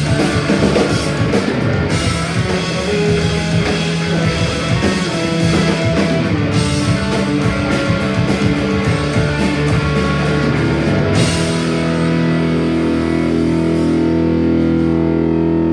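Punk band playing live: electric guitars, bass and drum kit. About eleven seconds in the drums stop and the guitar chords are left ringing out.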